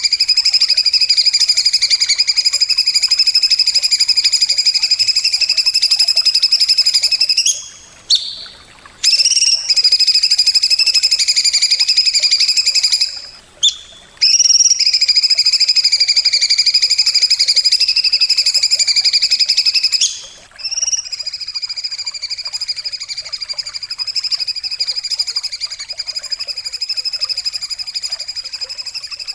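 An animal's continuous high, buzzing trill, held in long unbroken spells with short breaks about 8, 13 and 20 seconds in. Each spell starts with a quick upward slide, and it is quieter after the last break.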